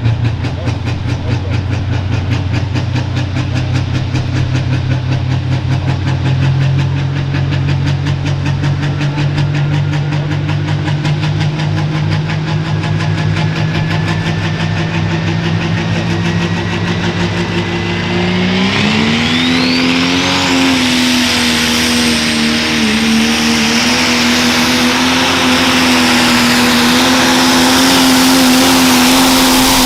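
Turbocharged pro stock pulling tractor's diesel engine running at a lumpy, pulsing low speed. About two-thirds of the way through it revs up hard with a rising turbo whine and holds a loud, high-rpm note, as at the start of a pull.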